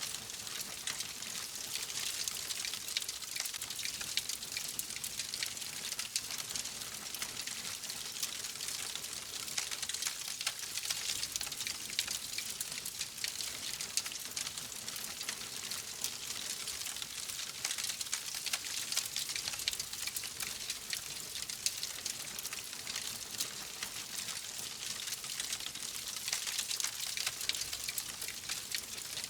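Wood fire in a fireplace crackling steadily: a dense hiss of small snaps and pops, with no large single crack standing out.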